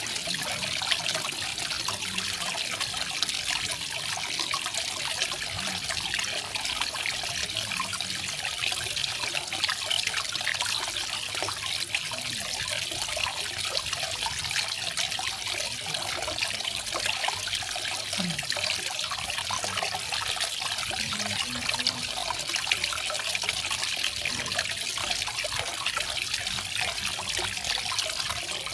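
Small garden waterfall, water trickling and splashing steadily.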